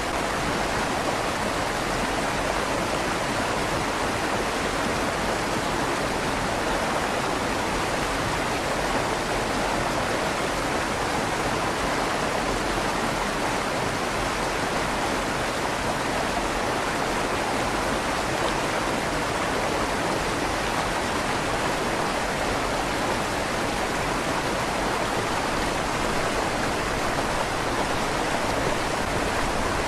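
River water flowing steadily through a stone tunnel under a bridge, a continuous rushing with a slight echo off the stone walls.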